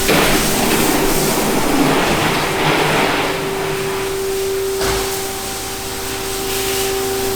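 Hot-water pressure washer running: a steady engine and pump hum under the hiss of the high-pressure spray, the spray loudest in the first few seconds.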